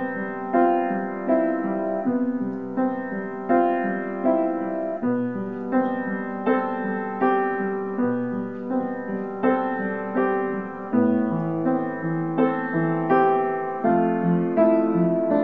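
Solo piano playing a slow, even melody over repeated chords, a new note struck roughly every 0.7 seconds.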